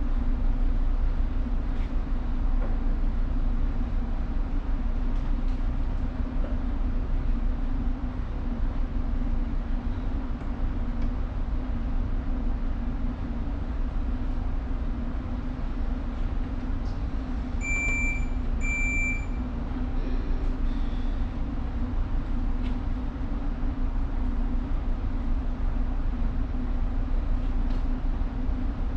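Steady low hum and rumble of the tanker's machinery, with two short high beeps in quick succession a little past halfway.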